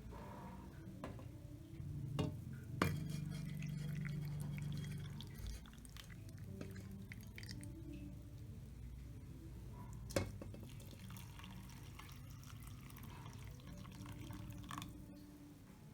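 Kitchen utensils and dishes being handled: a few sharp clinks, the clearest about three seconds and ten seconds in, over a low hum that swells for a few seconds early on.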